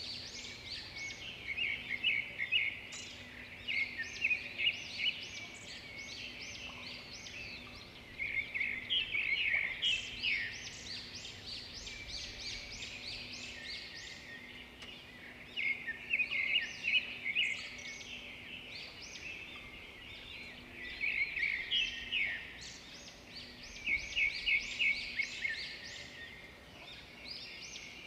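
Songbirds singing: phrases of rapid high chirps and trills, several seconds each and repeated every few seconds, with quieter twittering between them.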